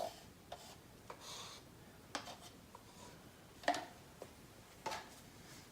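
A few scattered light taps and clicks, about six spread over the few seconds, with a brief soft rustle a little over a second in: hands handling paint-pouring supplies such as cups and the canvas.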